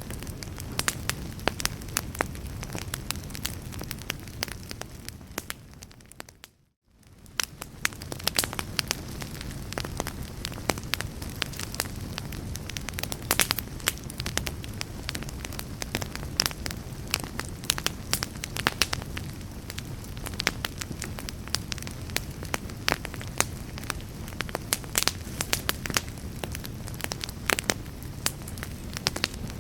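A fire crackling, with frequent sharp pops and snaps over a steady low rumble. About six seconds in it fades out to brief silence and fades back in, where the recording loops.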